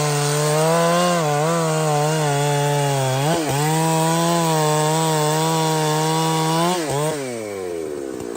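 Two-stroke chainsaw at full throttle cutting through a tree trunk, its engine note wavering and dipping as the chain bites, with a sharp dip about three seconds in. Near the end the throttle is released and the engine falls to a low idle.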